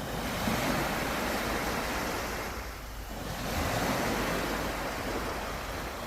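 Sea surf breaking and washing up on the shore, in two swells with a brief lull about three seconds in.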